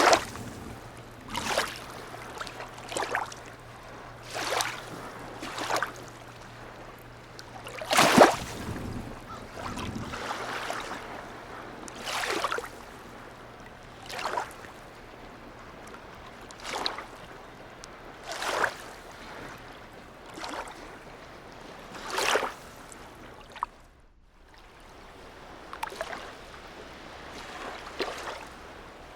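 Small sea waves lapping and splashing in a harbour, a slosh every second or two, over a low steady hum that stops about two-thirds of the way through.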